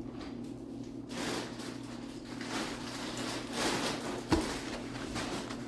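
Kitchen handling sounds while baking ingredients are being prepared: rustling and light clatter, with a sharp knock about four seconds in, over a faint steady low hum.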